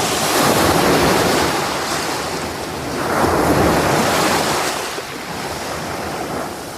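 Ocean surf washing in, two waves swelling and ebbing, as an intro effect before the music begins.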